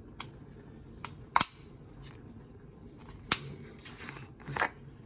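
A few sharp clicks and knocks, the loudest about a second and a half in and again past three seconds, then about a second of rustling near the end, as a paprika packet is handled and opened.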